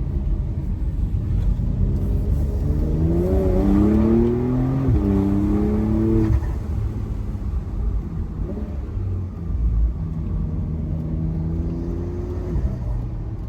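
Porsche 992.2 Carrera's turbocharged flat-six pulling at moderate revs. The engine note climbs for a few seconds, drops sharply about five seconds in, holds steady, then eases off near the end, over a steady low rumble.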